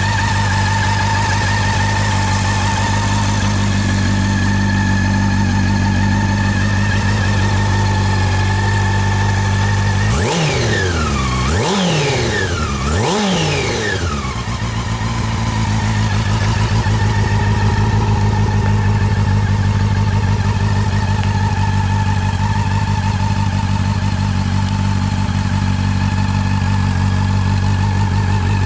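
Honda CB400 Super Bol d'Or Revo's inline-four engine idling steadily, then given three quick throttle blips about ten seconds in, each revving up and dropping straight back, before settling back to idle.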